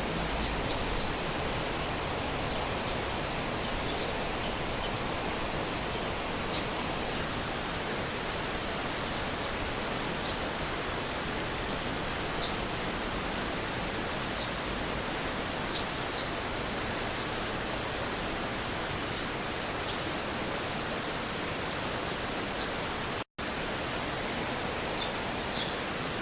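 Stream water rushing steadily, an even, continuous wash of noise, with a few faint short high chirps scattered through it. Near the end the sound drops out for an instant.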